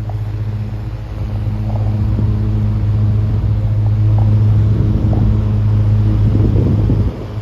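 Vintage Emerson 6250 10-inch table fan running, its electric motor giving a steady low hum that grows louder over the first few seconds and drops off suddenly near the end.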